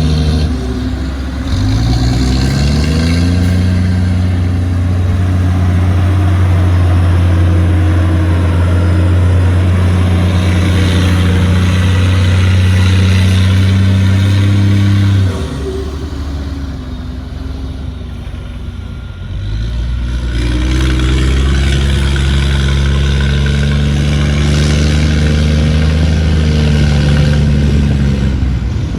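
Heavy diesel engine of earth-moving equipment revving up and held at high revs under load. About halfway through it drops back to a low idle, then revs up again and holds until it falls away at the end.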